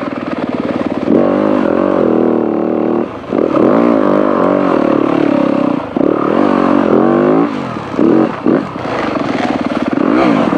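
Dirt bike engine being ridden hard over rough trail, revving up and down as the throttle is worked. There are short drops in revs about three seconds in, six seconds in, and around eight to nine seconds in.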